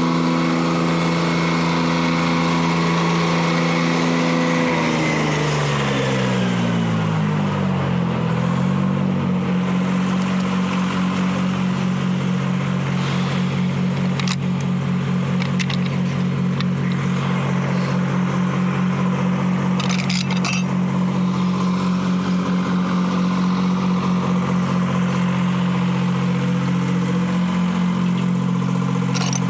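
Detroit Diesel 3-71 two-stroke diesel running at speed, then slowing over a few seconds, starting about five seconds in, to a lower steady speed with an even pulsing beat. A few short metallic clinks come later.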